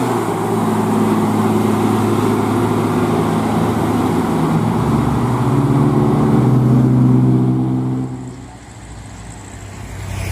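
Heavy truck's diesel engine labouring up a steep grade, with a steady low engine note that rises a little in pitch, then falls away about eight seconds in as the truck moves off.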